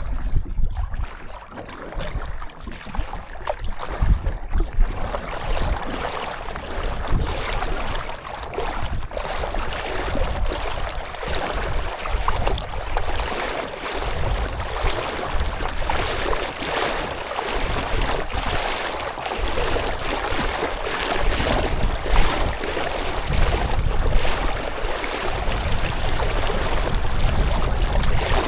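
Water splashing and lapping around a canoe, a continuous noisy wash, with a low fluctuating rumble underneath that thickens about five seconds in.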